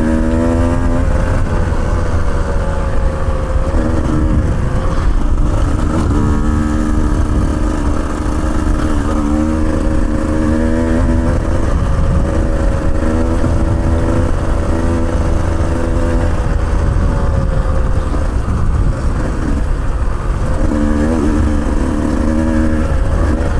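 Off-road motorcycle engine running while riding, its note holding steady for stretches and then dropping away and returning as the throttle changes, over a heavy low rumble throughout.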